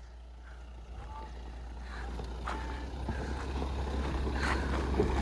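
Mahindra Thar driving slowly down rough off-road ground. Its engine runs with a steady low hum and grows gradually louder, with a few faint ticks.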